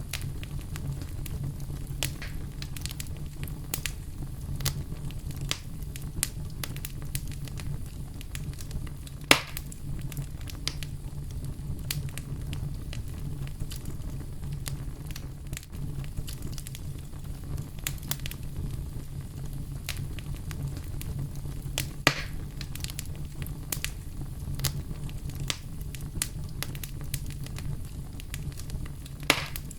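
Campfire burning: a steady low rumble under constant crackling, with three louder pops, about nine seconds in, about twenty-two seconds in and near the end.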